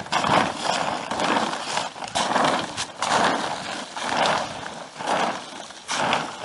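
Footsteps on the deflated plastic tube of an AquaDam, walking the air out of it. Each step brings a swell of rustling and scuffing, about one step a second.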